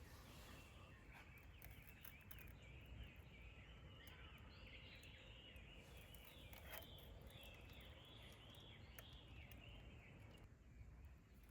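Faint birdsong: many quick high chirps from small birds, over a low steady background rumble. The chirping stops shortly before the end.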